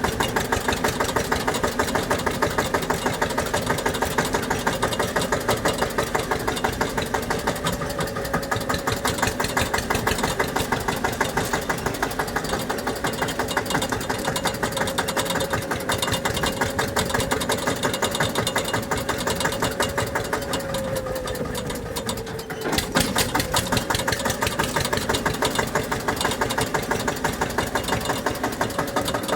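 Tractor engine running steadily with a rapid, even beat. About two-thirds of the way through, its pitch sags and the sound briefly drops, then it picks back up.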